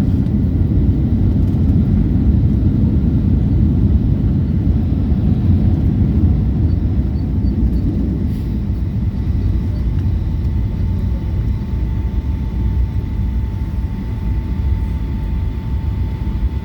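Cabin noise of a Boeing 757 rolling out on a blue ice runway after touchdown: a steady low rumble that eases about halfway through, with a faint steady whine above it.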